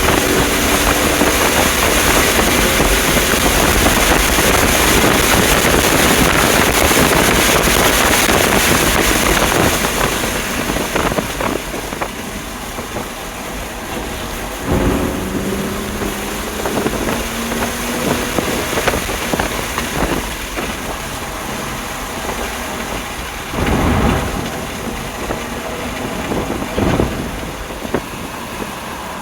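Onboard sound of a stock 2020 BMW M2 Competition at speed: a loud rush of wind and engine noise for about the first ten seconds. Then it quiets, and the engine note is heard rising and falling, with a few short thumps about halfway and later on.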